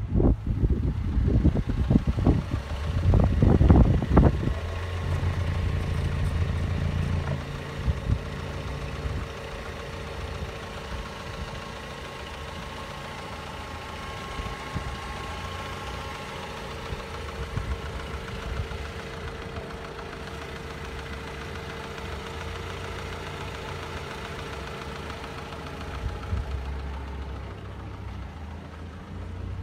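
Mazda L8 1.8-litre four-cylinder engine running at a steady idle, getting quieter and settling to a lower, even level about eight seconds in. Loud, uneven noise covers the first few seconds.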